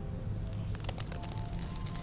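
Dry black concrete crumbling with a run of crisp crackles and clicks that begins about half a second in, over a low steady hum.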